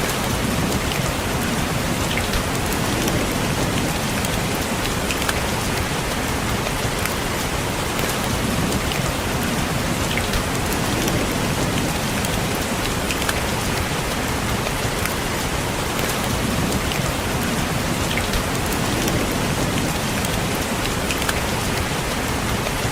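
Steady rain falling on a window, an even hiss of rain with scattered sharper ticks of single drops striking the glass.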